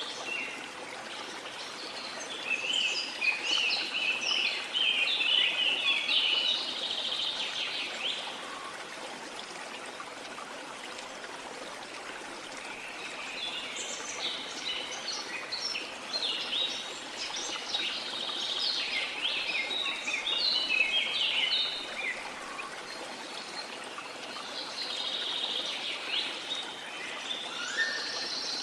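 Birds singing in spells of quick, busy chirps over a steady rush of running water. The longest spell of song comes about halfway through, with another early on, one near the end, and only the water in between.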